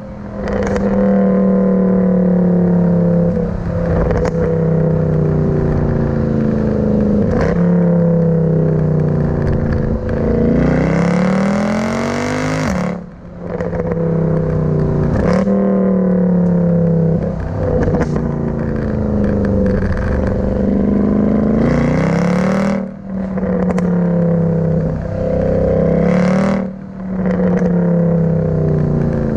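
Mercedes C63 AMG's 6.2-litre naturally aspirated V8 running hard, its pitch swinging up and down, broken every few seconds by short sharp cracks and brief dips in level.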